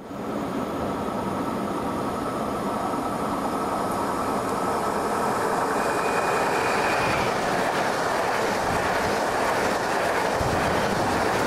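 Pesa Dart electric multiple unit approaching and passing at speed: a steady rush of wheels on rails that builds as it nears, with a brief thin high tone about six seconds in and a low rumble as the carriages go by near the end.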